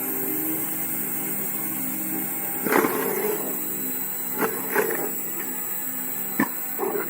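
Motor-driven log splitter running with a steady hum, with five sharp knocks of wood being split or struck.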